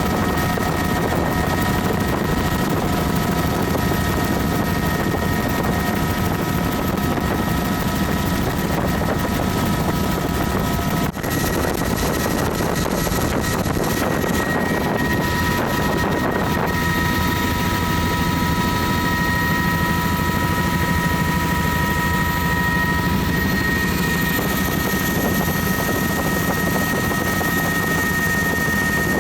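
Helicopter in flight heard from inside its open-door cabin: a steady rotor and engine noise with wind rush and a constant high whine. The sound briefly drops about eleven seconds in.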